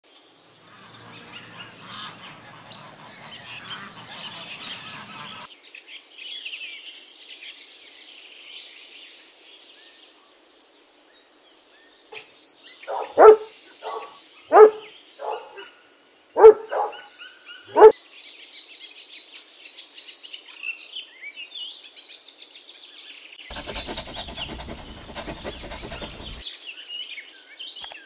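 Birds chirping and twittering through most of the stretch, over a rough splashing noise at the start. In the middle, a puppy gives four loud, short yelping barks with smaller yelps between them.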